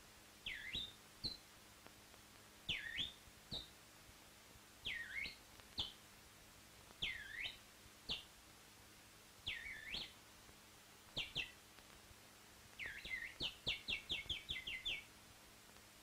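A bird calling in repeated phrases about every two seconds: each is a swooping note that dips and rises again, followed by a short high note. Near the end it breaks into a quick run of about eight short notes.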